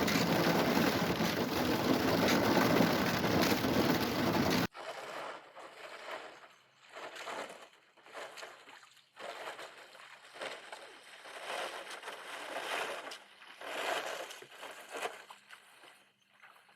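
Canoe hull breaking through a thin skin of surface ice, crunching and grinding. Loud and dense for the first few seconds, then after a sudden cut, quieter crunching that swells and fades about every second or so.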